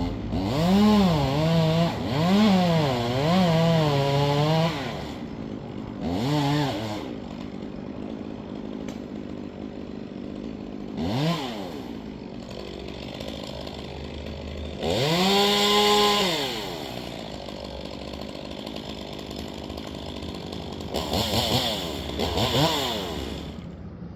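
Two-stroke chainsaw revving up and dropping back to idle over and over: a run of quick revs at the start, single blips, a longer stretch held at high revs midway, and more revs near the end, idling in between.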